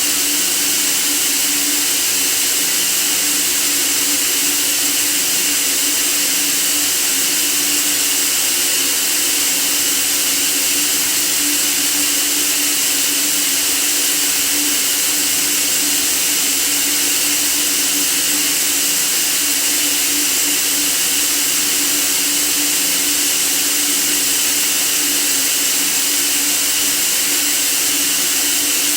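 Steady white noise: a bright, unchanging hiss with a faint hum beneath it.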